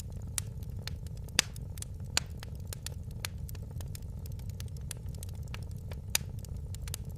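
Wood fire crackling in a fireplace: a steady low rumble with frequent sharp pops and snaps, the loudest about a second and a half in, just after two seconds and about six seconds in.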